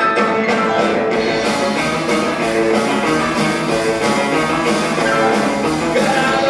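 Rock band playing live: keyboard chords with drum hits, then about a second in the full band comes in with a steady drum beat, bass and electric guitar.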